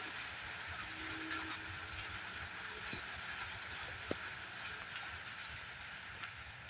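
Steady rain falling, an even hiss that eases slightly toward the end, with a few faint ticks.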